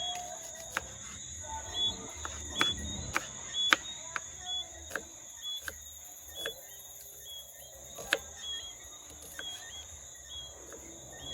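Sharp, irregular clicks of a knife cutting purple onion, about one or two a second, over a steady high drone of crickets.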